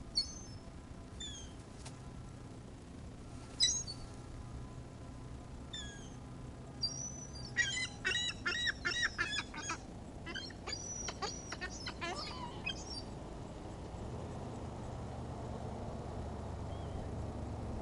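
Seagulls calling: scattered single cries, then a rapid run of loud repeated calls in the middle. A low engine-like rumble comes up in the last few seconds.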